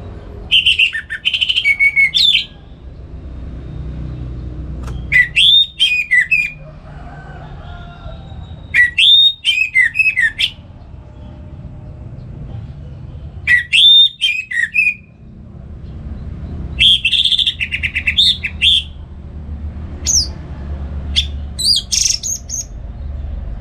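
Orange-headed thrush singing in short phrases of rapid, high whistled notes, about six phrases with pauses of a second or two between them, over a steady low rumble.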